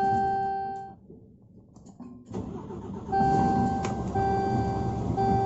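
Scania P340 dashboard warning buzzer: one long beep, then after a short pause a beep repeating about once a second, over the noise of the truck's engine. It is the warning for ABS malfunction and low brake pressure.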